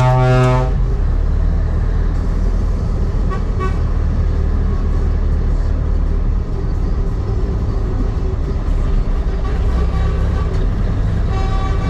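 Truck engine running steadily with a loud low rumble during a truck convoy, a truck horn blast cutting off under a second in. Fainter horn toots from other trucks sound around three and a half seconds in and again near the end.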